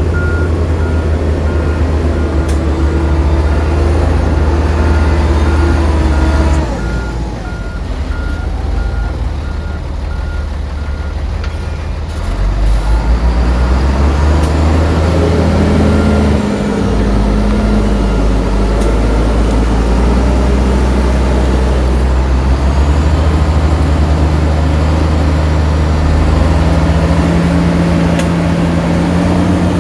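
Heavy diesel engines of earthmoving machinery running under load. A reversing alarm beeps at an even pace for roughly the first twelve seconds. The engine note drops about seven seconds in and picks up again around twelve seconds, then shifts pitch a few more times.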